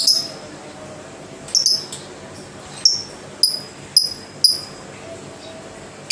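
Female lovebird giving a string of short, sharp, high chirps, each dropping quickly in pitch, about seven of them at irregular gaps of half a second to a second, two coming close together.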